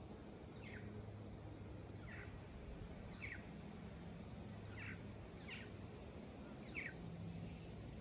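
A bird calling in the treetops: about six short, falling notes, roughly one a second, over a faint steady low hum.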